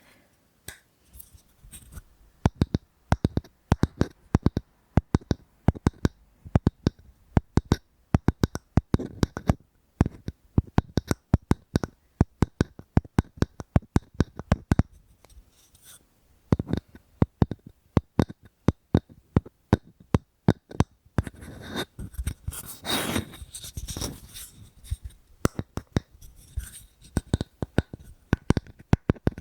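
Fingers tapping on a wooden object in quick runs of crisp knocks, with short pauses between runs and a stretch of denser scratching about two-thirds of the way through.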